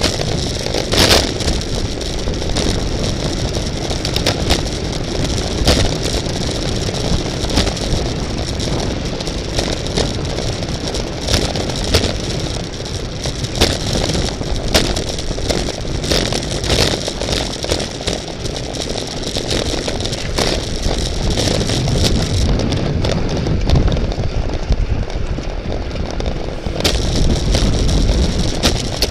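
Wind rush and road rumble from a racing bicycle ridden at speed, heard from a camera on the bike, with frequent sharp clicks and rattles from the bike.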